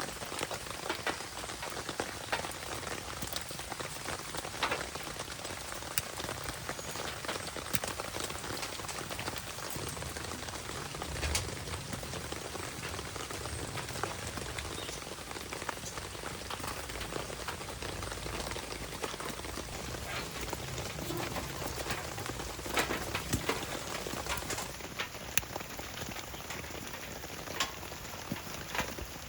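Steady rain falling, with scattered sharp pops and ticks through it.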